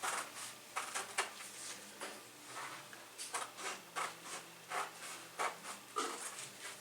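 Scissors cutting fabric, a series of short snips roughly every half second.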